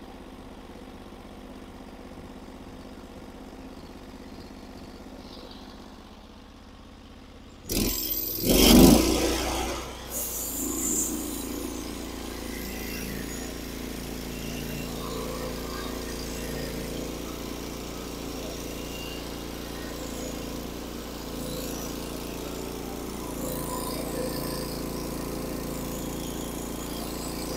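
Portable band sawmill: a low steady run for about eight seconds, then a sudden loud surge as the engine is throttled up. It settles into a steady running sound as the band blade saws through a white oak log.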